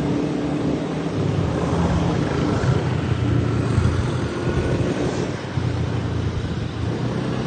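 Motorbike engine running steadily on the road, its pitch shifting a few times as the speed changes.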